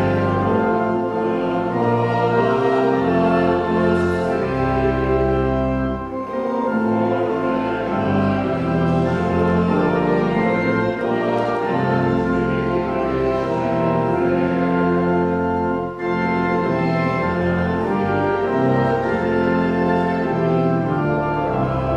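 Church organ playing held chords over deep sustained bass notes, with short breaks between phrases about six seconds in and again near sixteen seconds.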